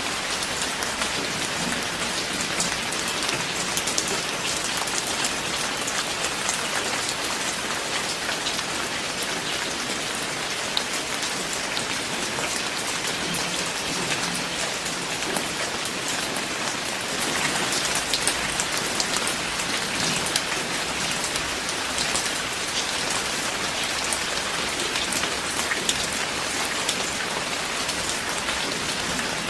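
Steady heavy rain falling, an even hiss with many sharp individual drop splats through it.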